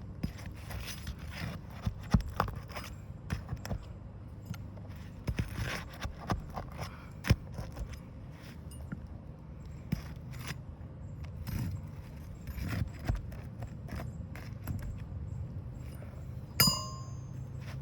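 Roofing nails being worked out from under asphalt shingles: irregular clicks, knocks and scraping of a metal tool against the shingles, with a ringing metal clink near the end.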